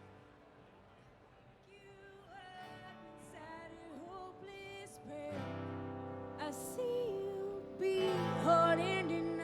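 Live band starting a song: a bending melodic line comes in over near quiet about two seconds in, and the full band joins around five seconds in, growing louder.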